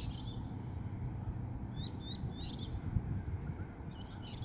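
Birds chirping in short high bursts three times, at the start, about two seconds in and near the end, over a steady low outdoor rumble.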